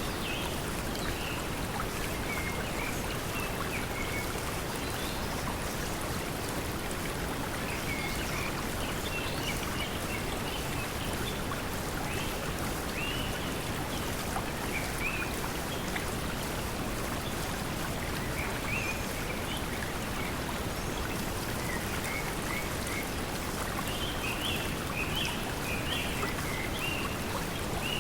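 Steady pink noise mixed with the rush of flowing water, with short bird chirps coming and going, busiest near the end.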